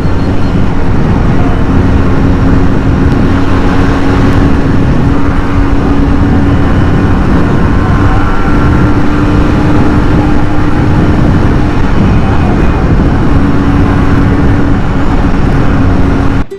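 Motorcycle on the move at a steady speed: engine running under a loud, steady rush of wind noise, with a steady hum that drops out briefly a couple of times.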